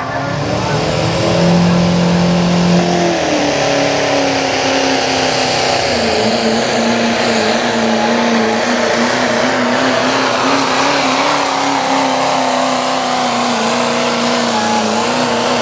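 Modified diesel four-wheel-drive pulling truck engine held at full throttle while the truck drags a weight sled down the pull track. The engine note stays high and steady, dropping a step in pitch about three seconds in and again about six seconds in.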